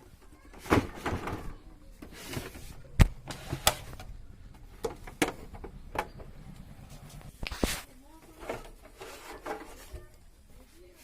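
Irregular clicks and knocks of tools and plastic parts as the back cabinet of an Onida CRT television is taken off, with the sharpest knock about three seconds in.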